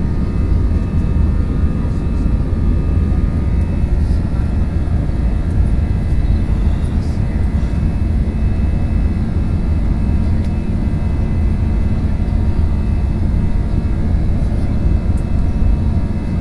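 Airliner engines at high power heard from inside the passenger cabin: a steady deep roar with thin steady whining tones over it.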